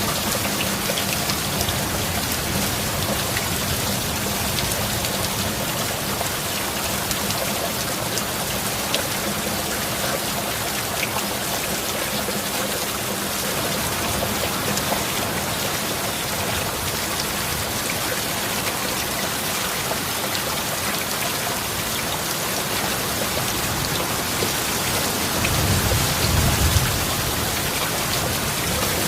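Heavy rain falling steadily, an even hiss of drops on surfaces. Near the end a brief low rumble of thunder swells up and fades.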